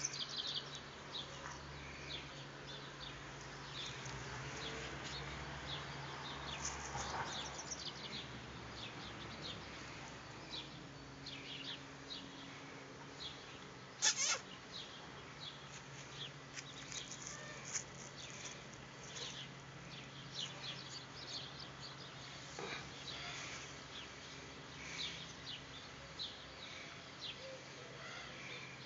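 Small birds chirping in short, high calls over a steady low hum, with one sharp click about halfway through.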